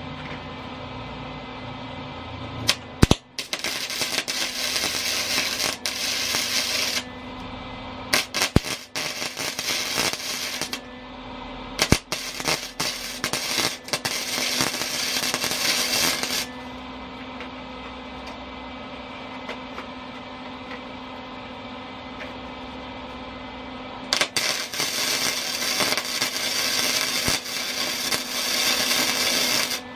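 Arc welder crackling and spitting in four welding runs of a few seconds each, tack-welding a steel battery tray to a mini bike frame at a lowered heat setting, with a steady hum between the runs.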